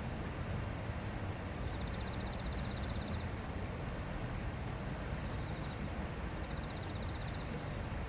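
Shallow river murmuring steadily over stones. A faint, high, rapidly pulsed trill comes in three times over it.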